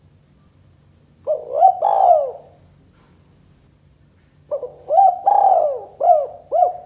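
Spotted dove (tekukur) cooing: a short phrase of coos about a second in, then a longer phrase of several coos near the end.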